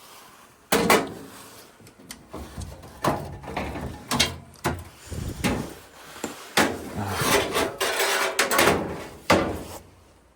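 Handling noise: an irregular series of knocks, clatters and scrapes, as of panels or parts being moved and set down by hand.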